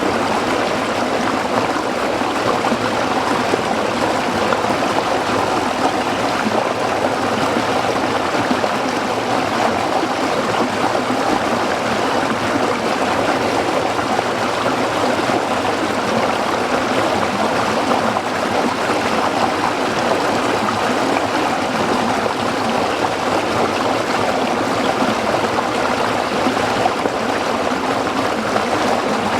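Small stream of water flowing and trickling over rocks, a steady babbling rush.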